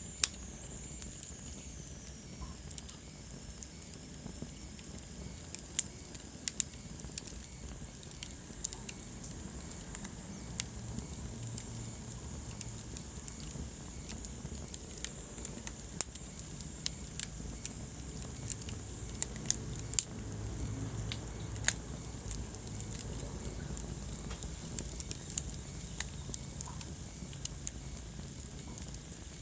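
Wood fire crackling in a fireplace: scattered sharp pops and snaps over a steady low rumble of flames and a soft high hiss, with a thin high whistle that falls away in the first few seconds.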